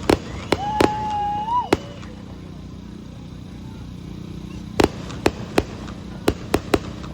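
Aerial fireworks bursting in sharp bangs: a cluster of four in the first two seconds, then a quicker run of six over the last two and a half seconds. A held, high whistle-like note that rises at its end sounds for about a second near the start.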